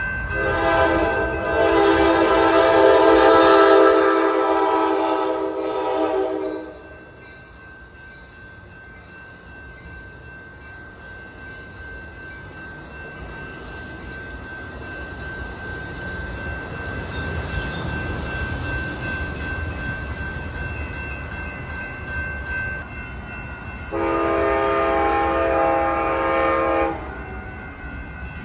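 Amtrak Pacific Surfliner passenger train horn sounding a long blast of several tones, followed by the train's rumble slowly growing louder as it approaches. A second, shorter horn blast comes near the end.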